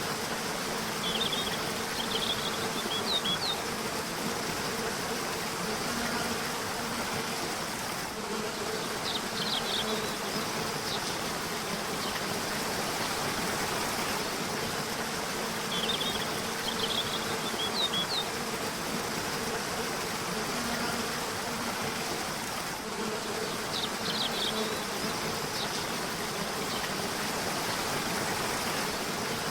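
Steady rush of a river or waterfall, with a bird singing short high chirping phrases four times at roughly even intervals. A low wavering buzz runs underneath.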